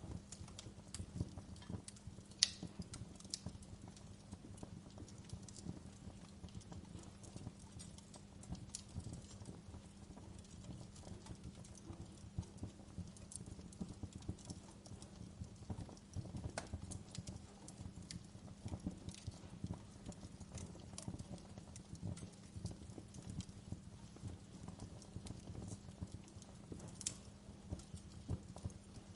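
Wood fire burning in a fireplace: a soft, steady low rumble with irregular crackles and sharp pops, the loudest pop about two and a half seconds in.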